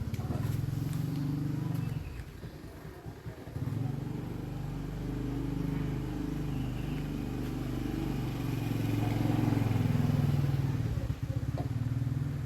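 A motor running with a low, steady hum; it drops back briefly about two seconds in, picks up again, and cuts off suddenly at the end.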